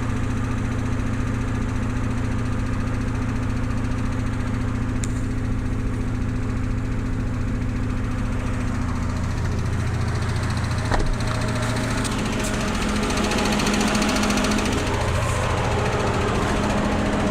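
Mitsubishi Pajero II's 3.0 L 6G72 V6 running cold with a knock in the engine; the engine has also begun to misfire. The engine note shifts about nine seconds in, and there is one sharp click near eleven seconds.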